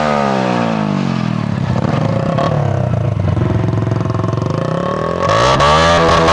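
Small-displacement motorcycle engine, its revs falling back over the first couple of seconds and running low, then snapped open about five seconds in and held at high revs against the rev limiter with a fast stutter.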